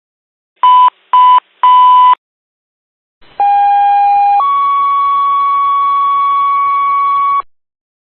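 Electronic fire dispatch alert tones: three beeps, two short and one longer, then a two-tone page, a lower tone for about a second stepping up to a higher tone held for about three seconds.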